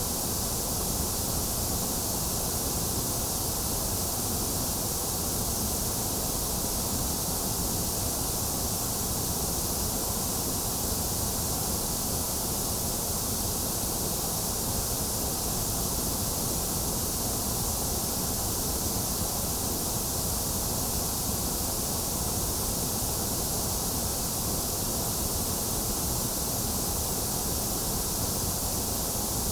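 Steady, unchanging white-noise hiss, an even wash of sound with a bright top end and no events in it.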